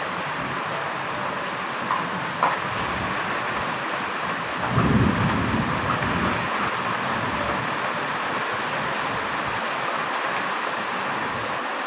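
Steady heavy rain, with a low rumble of thunder about five seconds in that lasts a couple of seconds, and a few sharp drip ticks before it.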